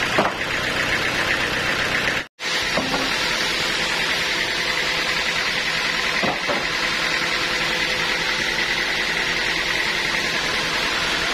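Sawmill machinery running steadily: an engine-driven noise with a constant high whine. The sound cuts out for a moment about two seconds in.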